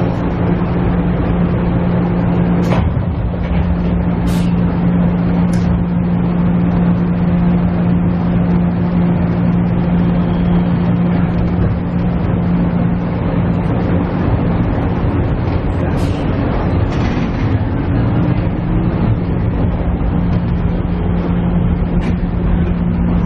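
Inside a KiHa E130 diesel railcar: the diesel engine runs with a steady hum, with a brief rising pitch about three quarters of the way through, and a few sharp clicks and knocks from the car.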